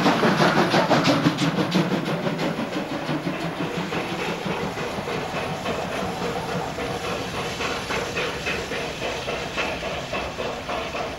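A train passing close by, its wheels clattering rapidly over the rail joints, the clatter fading within the first couple of seconds. A steady hiss of steam from a steam locomotive approaching slowly follows.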